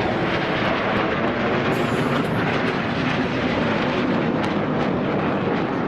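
Jet noise from the Red Arrows' BAE Hawk jets flying overhead: a steady, even rushing sound with no clear changes.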